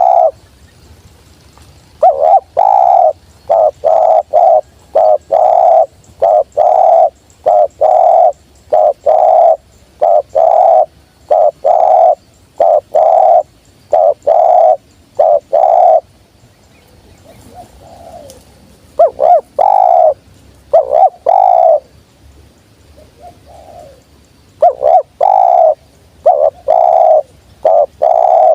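Spotted doves cooing: a loud run of short, evenly spaced coo notes, about two a second, breaking off about halfway through while fainter cooing carries on, then resuming loudly near the end.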